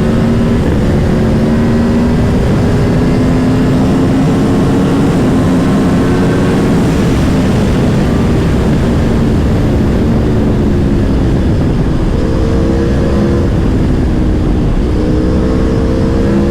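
Aprilia Tuono V4 Factory's V4 engine under way, heard from on board over heavy wind rush. The engine note climbs slowly in pitch for the first several seconds, then drops and climbs again in short runs near the end as the rider works the throttle.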